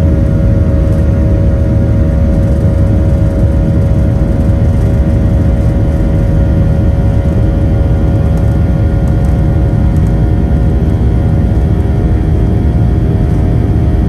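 Boeing 737-800's CFM56 jet engines heard from inside the cabin: a loud, steady low rumble with a steady multi-tone hum.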